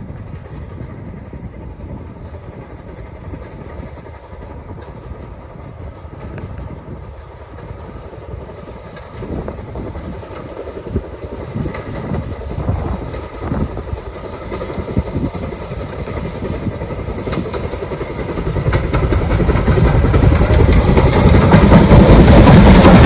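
Train approaching on the railway, growing steadily louder until it is close at the end, with wheels clicking over the rails.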